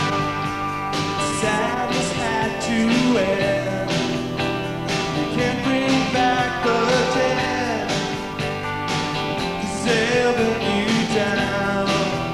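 Rock band music: an instrumental passage of a guitar-led song, with a steady beat, between sung verses.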